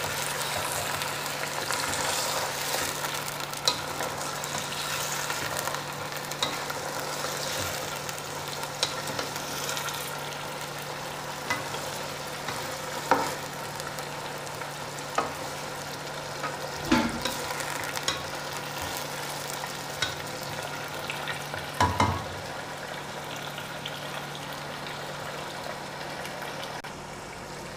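Chicken pieces with onions, ginger-garlic paste and garam masala sizzling in oil in a nonstick pot as they are stir-fried (bhuna). A wooden spatula stirs them, knocking against the pot a few times.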